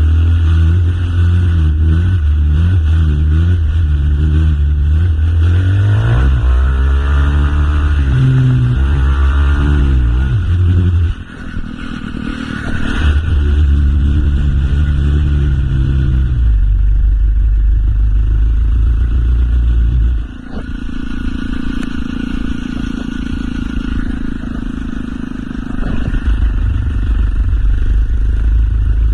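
A motorcycle engine running under way. Its pitch climbs and falls in a series of revs from about six seconds in, and it cuts back sharply at about eleven seconds before picking up again. Near twenty seconds it drops off again and settles to a steadier, lower running note.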